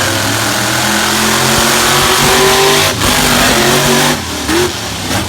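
Monster truck engines revving hard at high rpm, with a brief break about three seconds in and another a second later.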